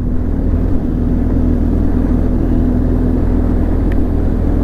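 BMW R 1200 GS boxer-twin engine running at a steady cruise, a steady low hum under heavy wind noise on the microphone.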